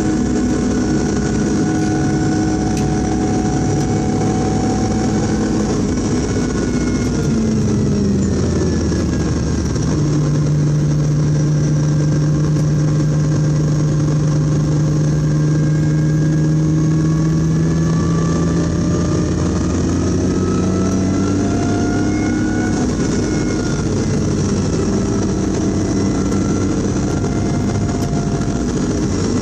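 BMW E46 M3's straight-six engine, heard inside the cabin while lapping a race track. The engine note drops about a quarter of the way in as the car slows, holds at a steady lower pitch through a corner, then rises again under acceleration, with a gear change near three-quarters of the way in.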